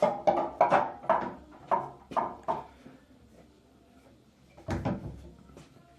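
Porcelain toilet tank lid knocking and clunking against the tank as it is handled: a quick run of about seven ringing clinks, then one heavier thud a couple of seconds later.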